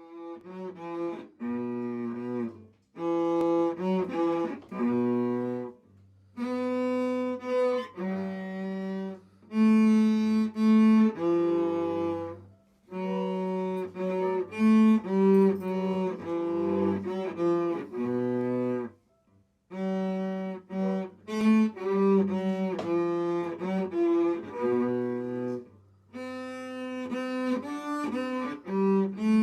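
Cello music: a slow melody of held, bowed notes in phrases with short breaks, over sustained low bass notes, starting suddenly after silence.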